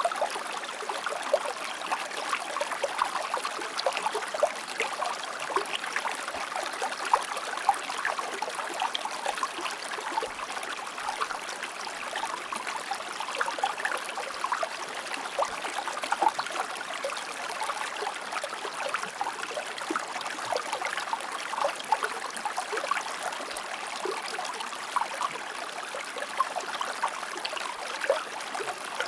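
A shallow stream or river flowing and splashing over stones, a steady babble made of many small quick splashes and trickles.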